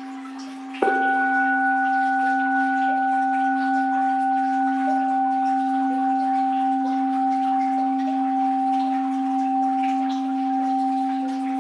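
Orin, a Japanese Buddhist bowl bell, struck once about a second in and left to ring on with a steady, slightly wavering hum, over the faint sound of flowing water.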